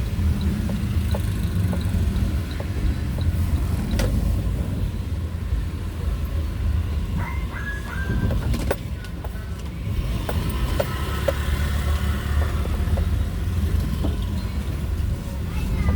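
Motor vehicle on the move: a steady low engine and road rumble, with a few faint clicks and rattles over it.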